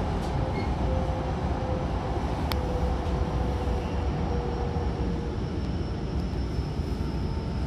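Running noise inside a Hankyu commuter train car in motion: a steady low rumble and hiss from the wheels and track, with a faint steady whine running under it. One sharp click about two and a half seconds in.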